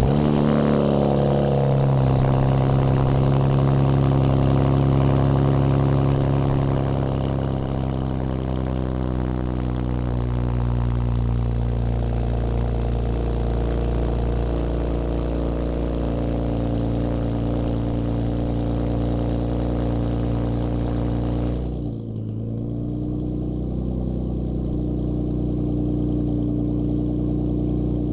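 Infiniti Q60's twin-turbo VR30 V6 through Boosted6 lower downpipes and an AFE 2.5-inch catback exhaust, idling just after start-up. It runs at a higher, louder fast idle for the first several seconds, then settles to a steady lower idle. About 22 s in, the upper part of the sound drops away abruptly.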